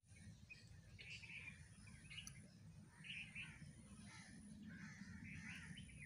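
Faint bird chirps, short calls coming roughly once a second, over a low steady background noise.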